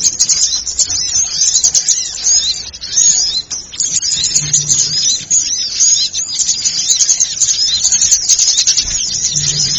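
Dense, busy chorus of many small birds chirping and twittering rapidly at high pitch, a bird-trapping lure recording meant to draw small birds in. A short low hum-like note sounds about every five seconds underneath.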